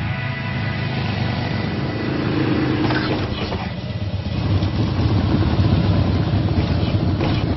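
Harley-Davidson Softail Deluxe's V-twin engine running steadily, with a few sharp clicks about three seconds in and again near the end.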